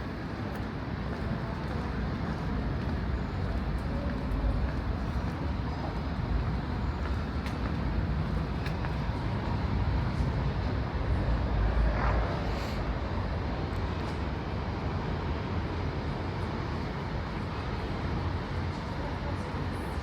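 Outdoor city street ambience of steady road traffic, with a vehicle passing and swelling louder about halfway through.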